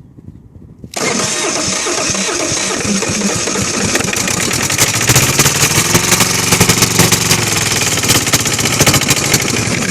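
Kohler KD425-2 two-cylinder air-cooled diesel being cranked for about nine seconds, starting suddenly about a second in and stopping abruptly, trying to catch partway through but not running cleanly: it is starving for fuel, which the owner puts down to an air leak in the fuel line.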